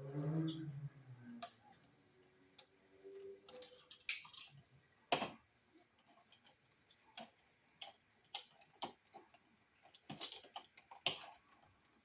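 Irregular small clicks and metallic ticks of copper wire and tools being handled against a wall receptacle, as the wire is shaped into a loop and hooked around a screw terminal. The loudest single click comes about five seconds in.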